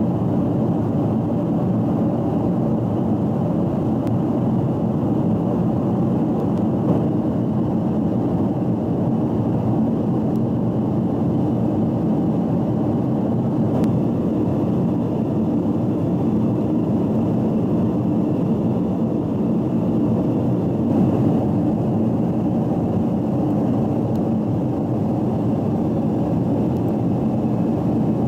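Steady cabin noise inside a Boeing 777-200 airliner: a continuous rumble of its jet engines and airflow, with a faint steady high whine over it.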